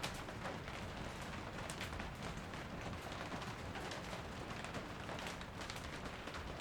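Steady rain falling, with many separate drops pattering throughout.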